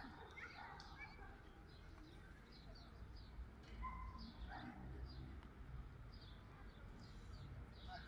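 Faint outdoor ambience: small birds chirping in short, repeated notes throughout, over a low murmur of distant voices.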